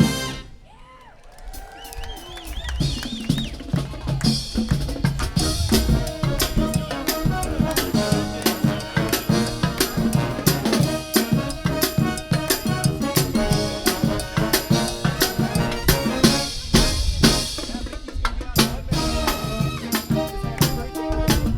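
Live brass marching band with drums playing: a brass chord ends at the start, then after a brief lull the drums take up a busy beat and the band plays over it.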